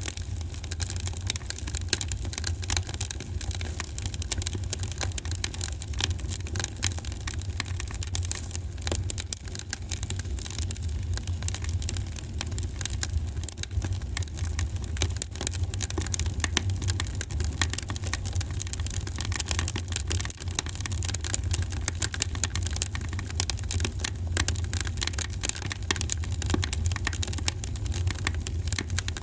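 Wood fire crackling in a fireplace: a dense, continuous patter of small pops and snaps over a steady low rumble of the flames.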